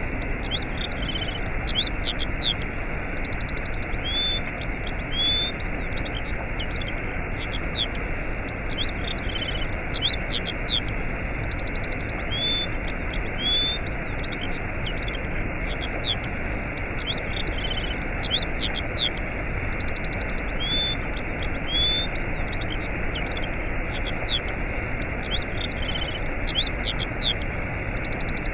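Steady rushing of a waterfall, with small birds chirping, whistling and trilling over it throughout.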